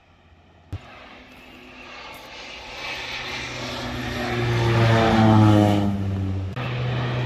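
Crop-dusting airplane's engine and propeller growing louder as it comes in low, loudest about five seconds in, its pitch sliding slightly down as it passes. A sharp click comes just under a second in.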